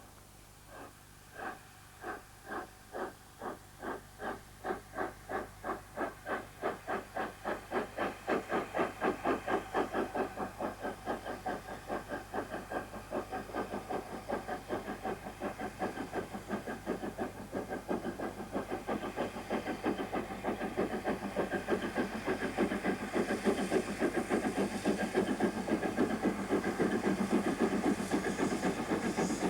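Three-cylinder LNER K4 2-6-0 steam locomotive getting a train under way: its exhaust beats start about a second in, slow and separate, then quicken and grow louder until they run together into a fast, steady chuffing with hiss over it near the end.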